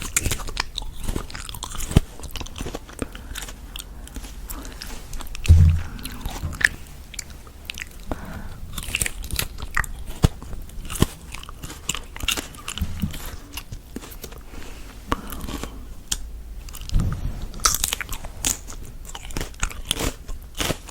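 Close-miked ASMR eating: repeated crisp, crunchy bites and chewing, with irregular crackles and a couple of heavier low thuds about five and a half seconds in and near seventeen seconds.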